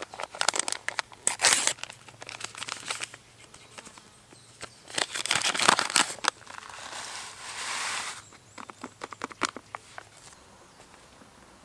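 Bursts of rustling and crinkling with small clicks, in three spells, the loudest about five to six seconds in, and a smoother rustle lasting a second or two in between.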